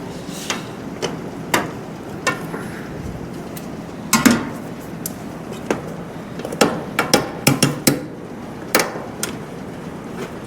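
Hand tools knocking and tapping on metal as parts are worked loose: irregular sharp strikes, with a quick run of them a little past the middle.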